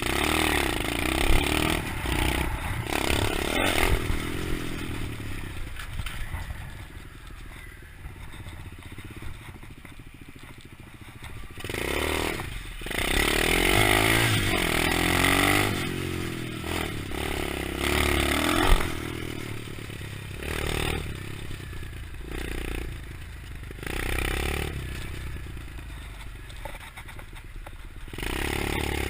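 A 125cc pit bike engine being ridden, its revs rising and falling repeatedly as the throttle is worked, with a few sharp knocks and rattles from the bike.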